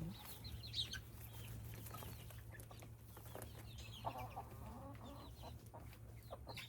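Chickens clucking faintly, with scattered high chirps, a few light clicks and a steady low hum underneath.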